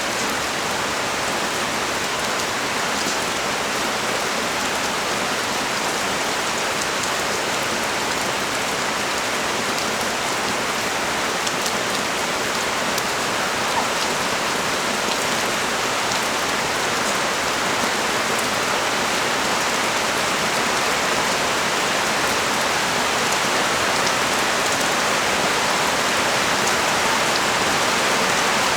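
Heavy rain pouring steadily onto the street and surfaces below a balcony: an even hiss with scattered drop ticks, growing slightly heavier toward the end.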